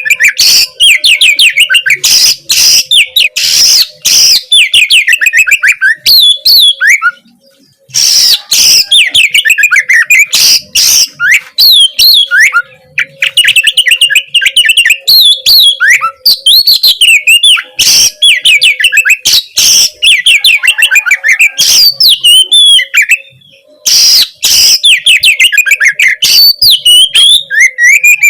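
Oriental magpie-robin (kacer) singing a loud, fast song of rapid sharp whistled notes, glides and trills, with two short pauses: about seven seconds in and about two-thirds of the way through.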